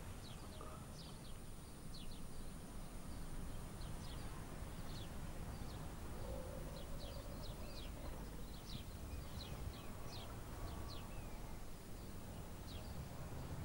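Small birds chirping in the trees: many short, high chirps from several birds, scattered throughout, over a steady low rumble of outdoor background noise.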